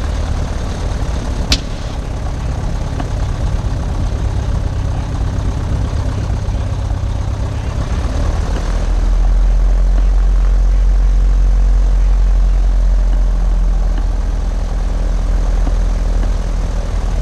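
Piper PA-22 Tri-Pacer's piston engine running at low power, with its steady drone growing louder about nine seconds in as power comes up. A single sharp click sounds about a second and a half in.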